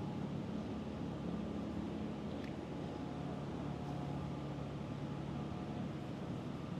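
Steady low mechanical hum over a background hiss, with no change through the whole stretch.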